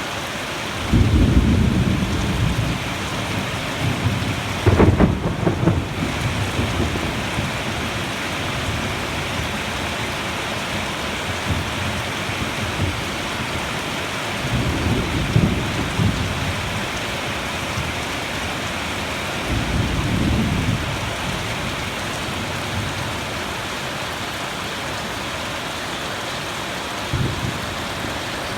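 Steady rain falling through a thunderstorm, with several rolls of thunder. One rumble comes about a second in, a sharper, louder one around five seconds, more around fifteen and twenty seconds, and a short one near the end.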